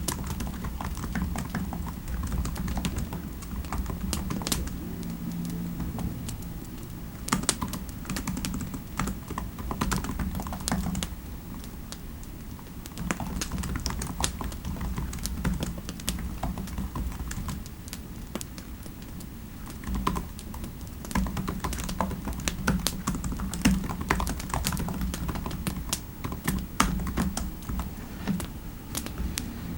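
Typing on a computer keyboard: irregular runs of quick key clicks with short pauses, over a steady low background rumble.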